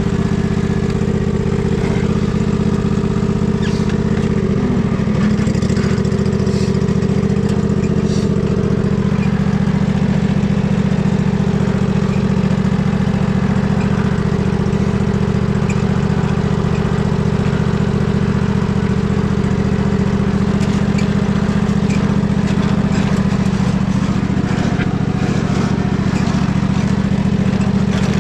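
Husqvarna riding mower engine running steadily. Its note shifts about five seconds in and then holds even.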